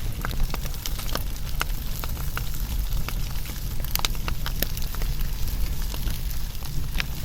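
Fire burning, with irregular sharp crackles and pops over a steady low rumble.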